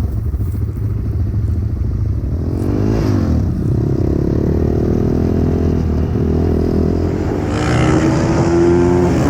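Pit bike's small single-cylinder engine running, revved up and back down about three seconds in, then climbing in pitch near the end as it accelerates.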